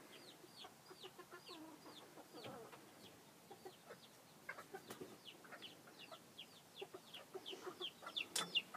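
Chicks peeping in rapid, short, falling chirps, several a second and busier near the end, with a hen's low clucks underneath. Faint.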